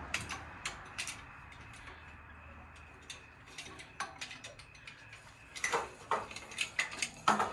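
Chain hoist being worked to lift a load, its ratchet and chain clicking: scattered clicks at first, then a quicker, louder run of clicks in the last couple of seconds.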